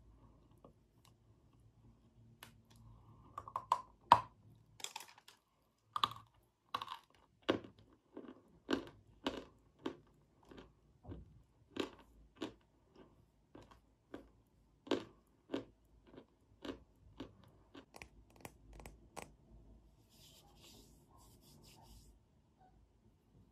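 Close-miked crunching and chewing of a hard, chalky white block: a run of sharp crunches, about two a second, starting a few seconds in. The loudest crunches come early, and the run thins out near the end.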